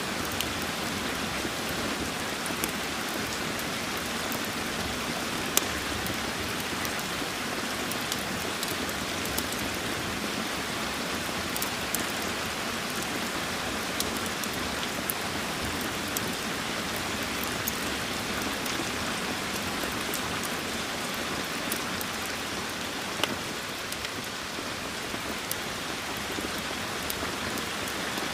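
Steady rain falling, an even hiss, with scattered sharp crackles from a wood fire mixed in, one louder pop about five seconds in.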